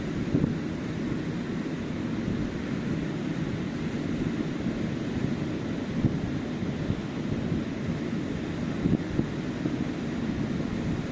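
Ocean surf washing onto a beach, a steady rushing noise that swells slightly near the end, with wind buffeting the microphone.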